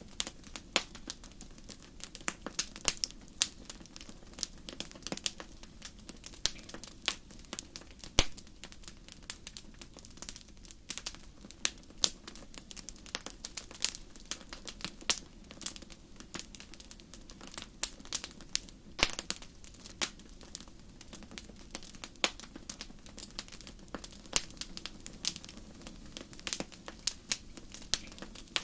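Fireplace fire crackling: irregular sharp pops and snaps, a few much louder than the rest, over a steady low rush.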